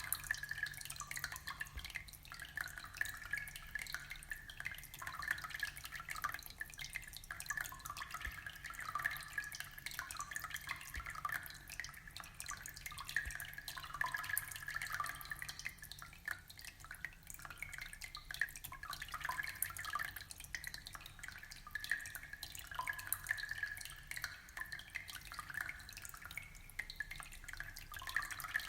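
Aquarium water trickling and bubbling steadily: a continuous patter of small drips and splashes.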